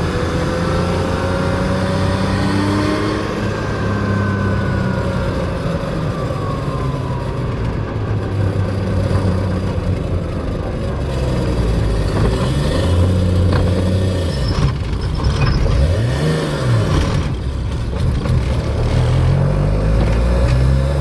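Nissan 240SX's RB25DET turbocharged straight-six, heard from inside the cabin while driving, its pitch rising and falling several times as it accelerates and shifts. The cabin is noisy because the shift boot insulation is off.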